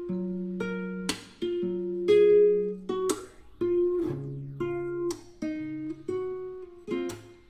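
Background music: acoustic guitar picking notes, with a strummed chord about every two seconds.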